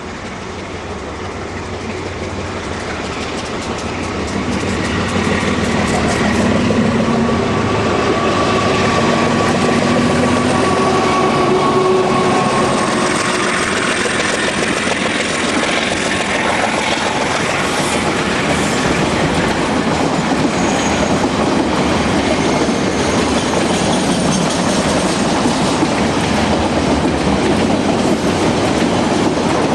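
Freight train drawing near, then rolling steadily past, its wagon wheels clattering over the rail joints.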